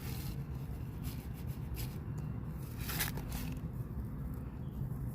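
Short scrapes and crunches of garden soil being poked and dug into by hand to make seed holes, several in the first three and a half seconds, over a steady low rumble.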